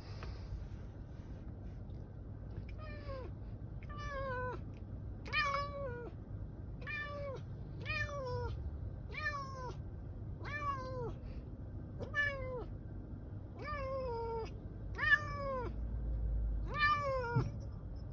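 Domestic cat meowing over and over, about a dozen meows roughly a second apart, each falling in pitch, beginning about three seconds in. The uploader puts the crying down to separation anxiety.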